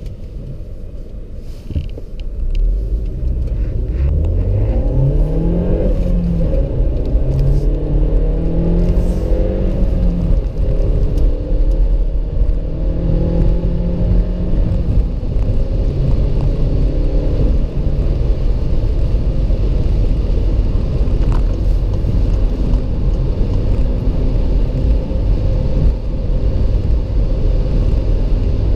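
A VW Polo Blue GT's turbocharged 1.4-litre TSI four-cylinder accelerates hard. Its pitch climbs and drops back at each of two or three gear changes in the first fifteen seconds. After that the car settles into a steady low rumble of cruising and road noise.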